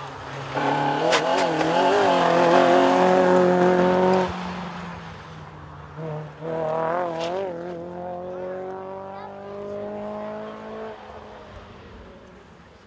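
Rally car engine working through a corner, its note wavering up and down with the throttle, with a sharp crack about a second in. The engine drops off about four seconds in. It then comes back and rises steadily as the car accelerates away, fading near the end.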